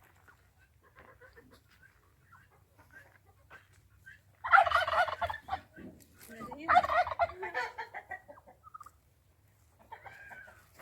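Turkey gobbling twice, about four and a half and six and a half seconds in, each a loud quick wavering call.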